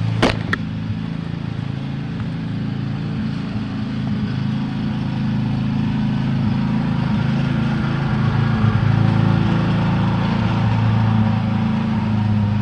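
Lawn mower engine running steadily, getting louder about eight seconds in as it comes closer, with a few sharp clicks right at the start.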